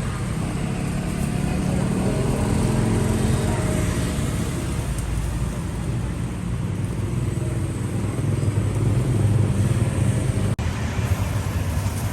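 Street traffic with motorbike engines running close by, a steady low engine hum that swells a little near the end.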